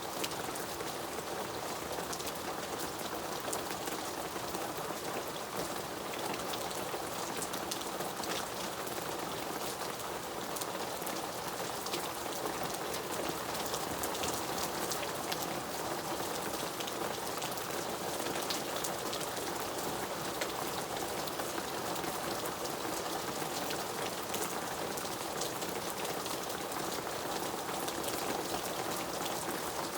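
Steady rain falling: a constant hiss with many separate drops ticking through it.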